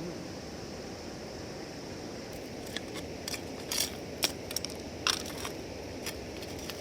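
A run of sharp crinkling and clicking handling sounds over a steady outdoor rushing noise. They start about a third of the way in and stop shortly before the end, loudest a little past the middle.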